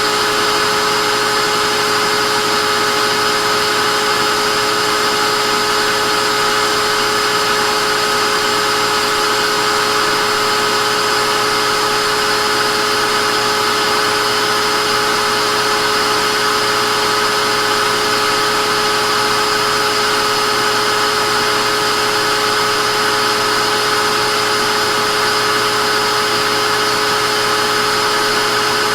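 Vacuum cleaner motor running steadily, a loud even whine of fixed tones over a rushing hiss, with no change in pitch or level.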